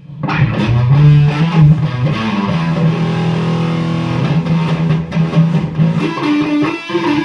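Gibson SG electric guitar through a hand-wired Octavia-clone fuzz pedal, octave off, into an overdriven Laney AOR 30 valve combo, playing a fuzzy riff of held notes that change about six seconds in.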